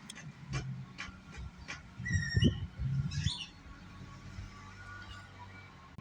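A bird calling twice in short high squawks, a little after two seconds and again a second later, after a few soft clicks.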